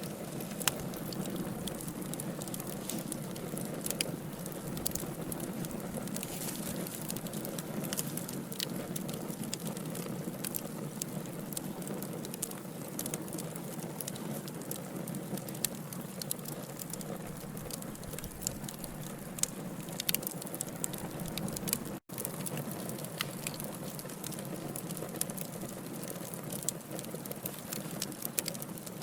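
Wood logs burning in a fireplace, crackling with frequent sharp pops and snaps over a steady low hiss. There is a split-second gap about two-thirds of the way through.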